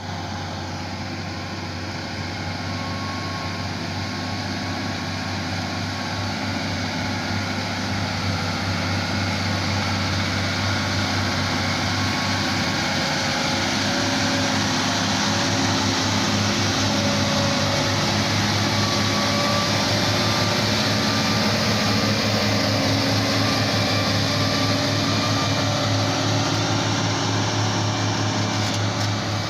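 Volvo FM9 truck's diesel engine running steadily with a deep hum, getting gradually louder over the first half and then holding level.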